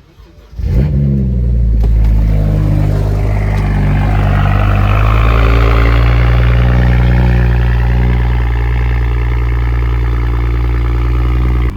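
Single-turbo BMW 335i's turbocharged inline-six engine starting to pull about a second in and then held at fairly steady, loud revs, with a rushing hiss swelling over the middle part; the sound cuts off suddenly near the end.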